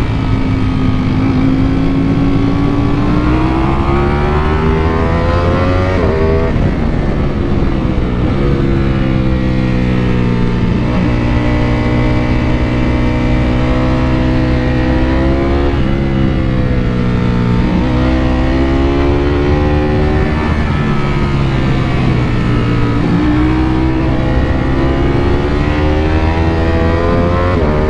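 Ducati Panigale V4 motorcycle's V4 engine under way, pitch climbing as it accelerates and dropping sharply at each gear change, several times over. Wind noise runs underneath.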